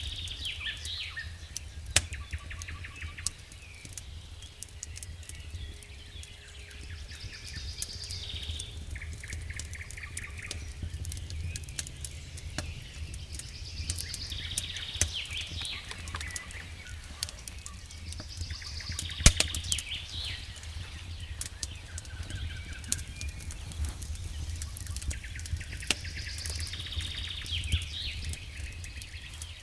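Wood campfire crackling with scattered sharp pops over a low steady rumble, while a songbird repeats a short song phrase about every six seconds.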